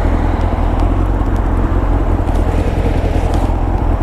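Kawasaki ZX-9R's inline-four engine running steadily at an even, unchanging pitch.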